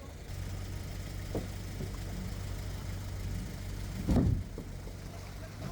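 A steady low engine hum, with a brief louder thump about four seconds in.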